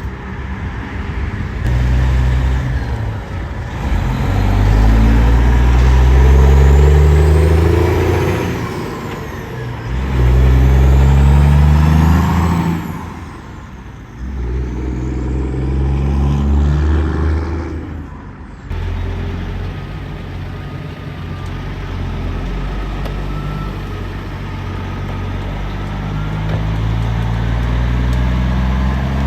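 Diesel semi-truck accelerating through its gears: the engine pitch climbs in each gear, drops back at each of about four shifts, then climbs slowly and steadily in a higher gear.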